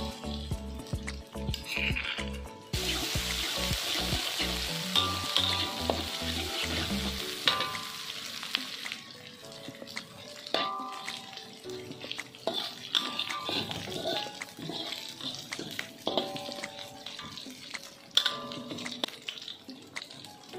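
Chili and turmeric spice paste sizzling in hot oil in a metal wok, with a metal spoon scraping and clicking against the pan as it is stirred. The sizzle is loudest from about three seconds in until about nine seconds in, then quieter, over background music.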